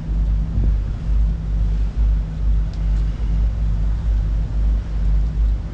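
Wind gusting across the microphone in an uneven low rumble, over the trawler's engine running steadily underway.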